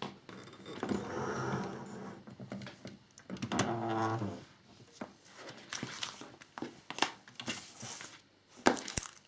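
Plastic parts bag rustling and being moved on a table, with scattered light clicks and taps of small plastic parts being handled. A brief pitched sound comes about four seconds in.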